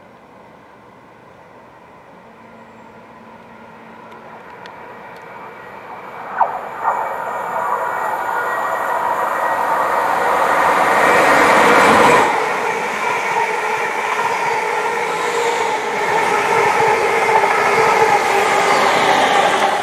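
Greater Anglia Class 720 electric multiple unit approaching and running past, growing louder until the front passes about twelve seconds in, then a steady rush of wheels on rail with a whine from the carriages going by. Two brief sharp sounds stand out about six and a half seconds in.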